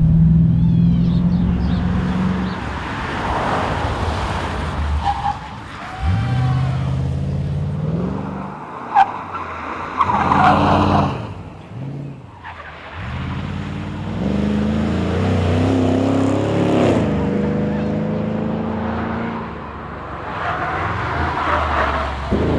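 Holden VE SS Commodore's 6.0-litre V8 under hard driving, its pitch rising and falling repeatedly as it accelerates through the gears and lifts off, with tyres squealing in places. There is a sharp crack about nine seconds in.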